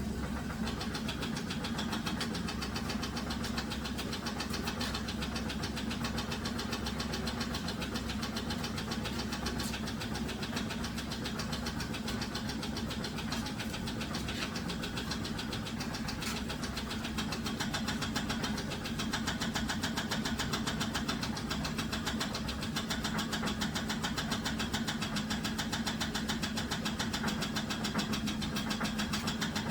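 2007 Dodge Grand Caravan V6 engine running steadily with a rapid, regular knock, which the owner suspects comes from loose torque converter bolts.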